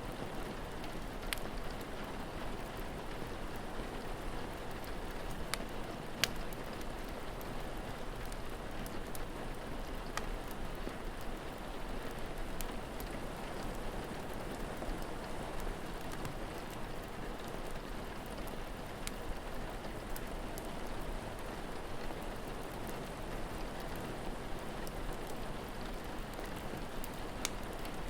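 Steady rain falling, with a wood fire crackling: a handful of sharp pops scattered through it, the loudest about six seconds in.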